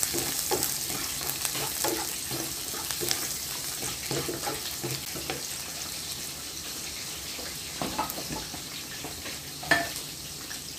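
Sliced garlic and ginger sizzling in hot olive oil in a nonstick wok, sautéing until fragrant, with a wooden spatula scraping and stirring through the first few seconds. A few knocks follow later, the loudest shortly before the end.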